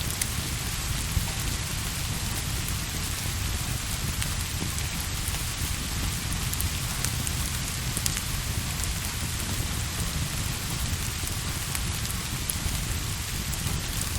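Steady rain falling on a surface, an even hiss with a low rumble underneath and scattered faint ticks of drops.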